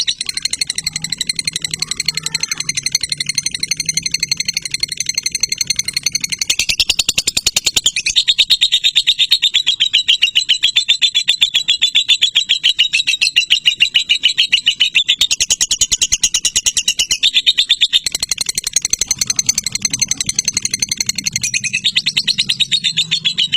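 Lovebird singing one long, unbroken run of rapid high-pitched chattering trills without a pause, the sustained 'ngekek' song prized for its duration.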